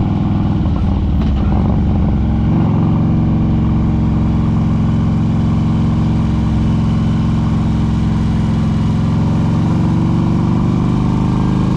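Harley-Davidson touring motorcycle's V-twin engine running steadily under way. The engine note changes about two and a half seconds in, then holds steady.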